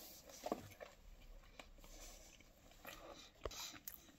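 A person quietly chewing a mouthful of pizza, with faint scattered small clicks and mouth noises.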